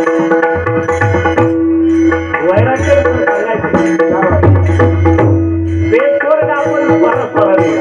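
Devotional bhajan music: pakhawaj drumming under steady held accompanying tones and frequent sharp high strokes, with a voice sliding through a wordless melodic phrase in the middle.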